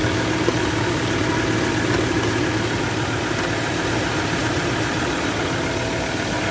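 Ford Ranger 3.2 five-cylinder diesel engine idling steadily.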